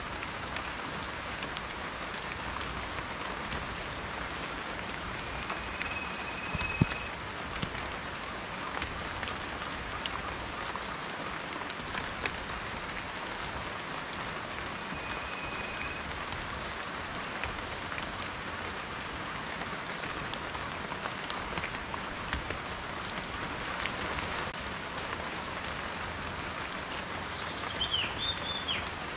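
Steady rain falling, with individual raindrops ticking sharply here and there. There is one louder drop about 7 seconds in. A couple of faint, thin high whistles and a brief chirp near the end sound over the rain.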